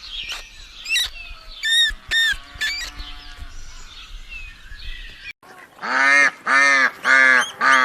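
Geese honking: a few thin, short calls over a low rumble, then from about six seconds in a run of loud, repeated honks, roughly two a second.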